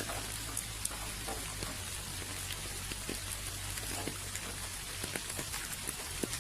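Steady rainfall, with individual raindrops tapping irregularly close by.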